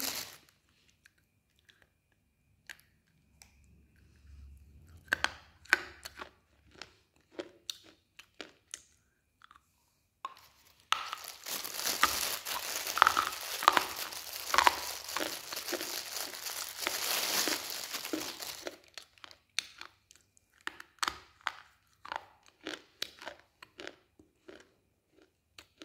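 Black slate pencil being chewed: scattered sharp crunches, then about seven seconds of dense, gritty crunching and grinding between the teeth from about eleven seconds in, easing back to sparse crunches.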